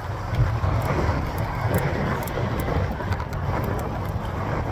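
Low, uneven wind rumble on the microphone of a moving cyclist, mixed with road traffic noise.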